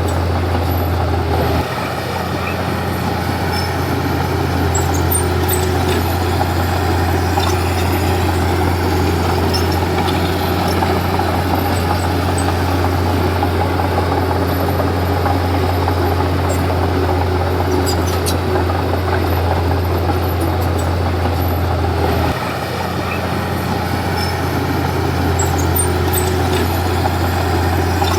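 Komatsu D31P bulldozer's diesel engine running steadily under load with a deep low hum, easing briefly about two seconds in and again near the end as the load changes, with faint clinks over it.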